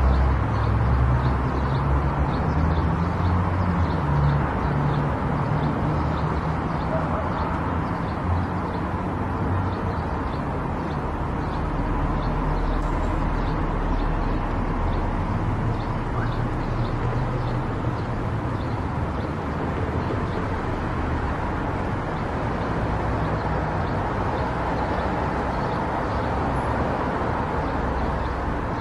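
Car driving along a road: steady road and engine noise with a low rumble.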